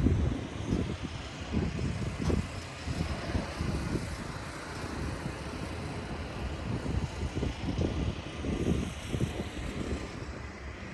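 Uneven low outdoor rumble with vehicle noise and irregular low fluttering, typical of wind buffeting the microphone.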